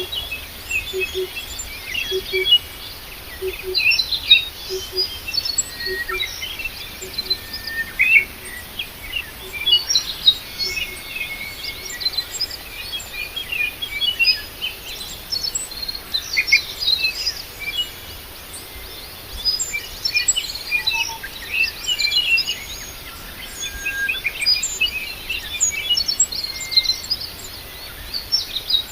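Several birds chirping and twittering, short high calls overlapping throughout. A faint low note repeats about once a second for the first several seconds.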